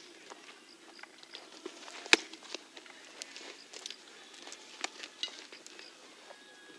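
Softball-field ambience: scattered light clicks and knocks, with one sharp crack about two seconds in.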